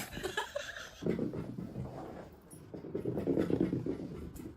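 A dog making low, rough, irregular noises.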